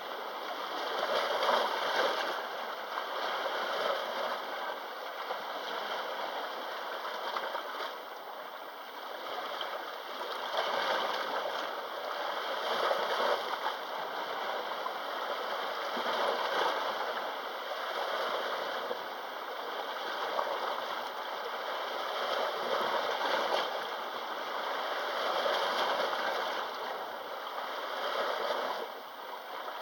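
Sea waves washing against the shore: a steady rush of water that swells and eases every few seconds.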